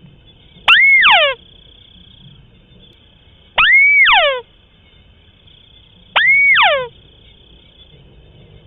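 White-browed crake calling: three calls about two and a half seconds apart, each a rising whistled note followed by a quick run of falling glides.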